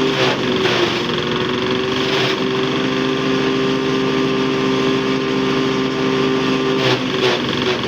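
10 hp diesel engine driving a chaff cutter, running steadily. Its pitch dips briefly near the start and again near the end.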